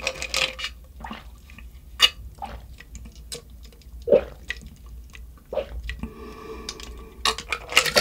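Close-miked wet mouth sounds of eating and drinking: scattered slurps, lip smacks, clicks and swallows, with a steadier stretch of drinking near the end.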